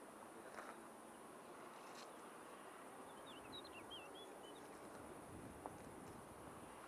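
Faint outdoor ambience with a steady high hiss, and a small bird twittering briefly about three seconds in: a run of quick chirps that rise and fall.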